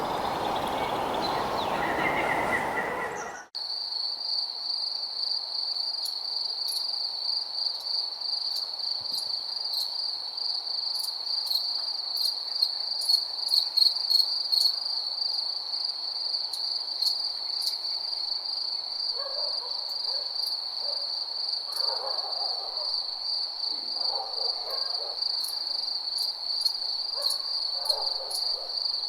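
Crickets trilling: a steady, high, single-pitched chirring chorus with light ticks above it. It begins after a broad rushing noise cuts off abruptly about three and a half seconds in. Faint low calls, owl-like hoots, come in short groups in the last third.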